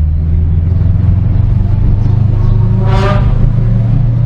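Car engine running with a steady low drone. A short pitched sound cuts in briefly about three seconds in.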